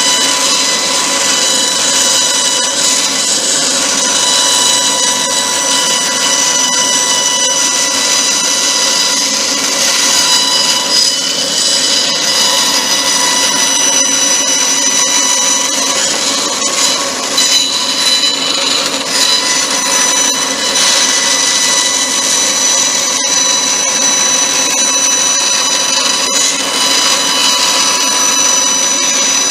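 Power saw running steadily with a high whine, cutting out a wooden framework pattern.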